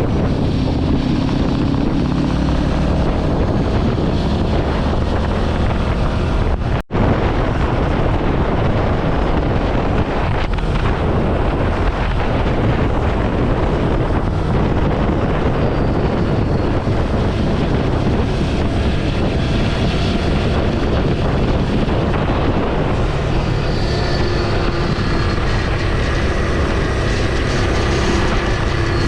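Ducati Scrambler Sixty2's air-cooled V-twin engine running steadily under way, with wind buffeting the microphone. The sound drops out for a moment about seven seconds in.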